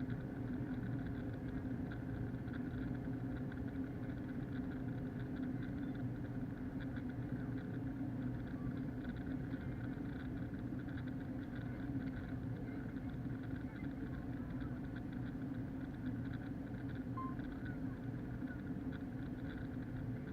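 Steady in-flight cabin drone of an Airbus A321-231 with IAE engines: engine and airflow noise, unchanging throughout, heard through an action camera sealed in its case.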